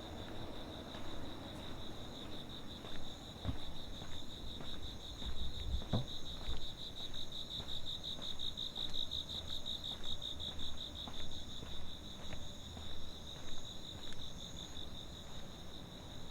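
Crickets trilling continuously at a high pitch, the chorus swelling and fading in quick pulses. Two faint knocks come about three and a half and six seconds in.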